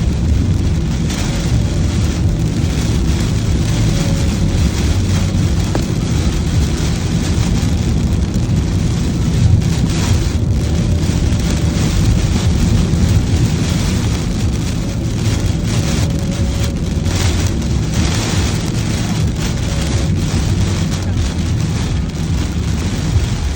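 Rain falling on a moving car, over a steady low rumble of road and engine noise.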